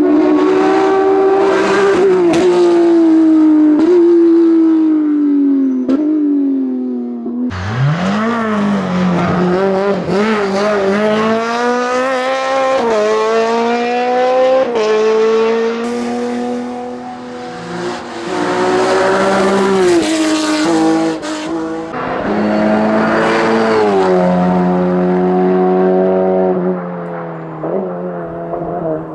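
Racing car engines at high revs, accelerating hard up a hillclimb course: each run climbs in pitch and drops at every upshift. About seven seconds in the sound cuts abruptly to another car, which starts low and revs up through its gears.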